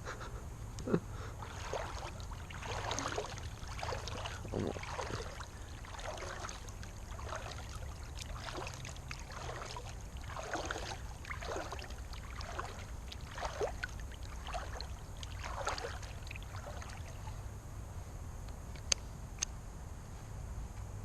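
Water swishing and splashing in irregular strokes about once a second as a small inflatable boat is paddled across a pond, easing off near the end, followed by two sharp clicks.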